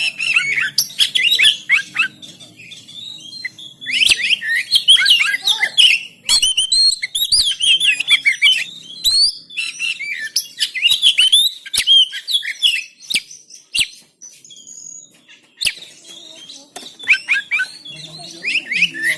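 Oriental magpie-robin (kacer) singing in long bursts of rapid, varied whistles and chirps, broken by short pauses, with a few sharp clicks between phrases.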